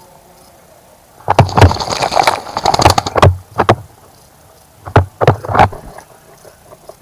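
A bird splashing in a birdbath, beating the water in two bouts of rapid strokes: a longer one of about two seconds, then a shorter one of under a second.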